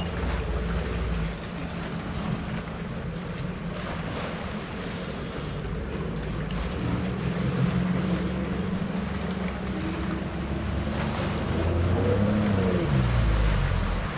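Jet ski engine running over water and wind noise, its pitch climbing about halfway through and swinging up and down near the end as the throttle changes.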